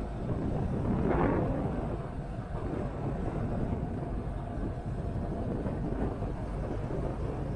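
Motorcycle running at road speed, with wind rushing over the microphone; the noise swells briefly about a second in.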